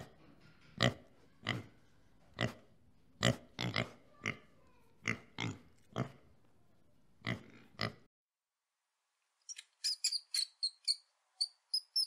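Pig grunting, about a dozen short separate grunts spaced around half a second to a second apart, stopping about eight seconds in. Near the end comes a quick run of short, high-pitched mouse squeaks.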